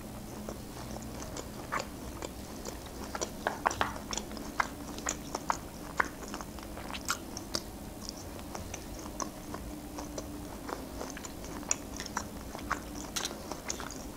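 Close-up chewing of a mouthful of grilled meat, with many small, irregular wet clicks and smacks of the mouth.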